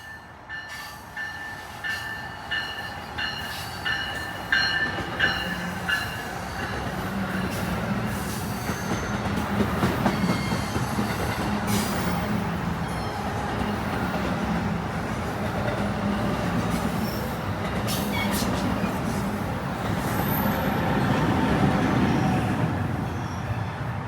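New Jersey Transit commuter train arriving: a bell rings about twice a second for the first six seconds or so, then the train's rumble and wheel clatter build and stay loud.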